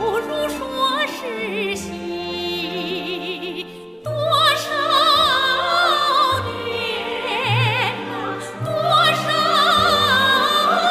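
A woman sings a high, sustained melody with wide vibrato in Chinese national opera style, over orchestral accompaniment. The singing pauses briefly about four seconds in, then a new phrase begins.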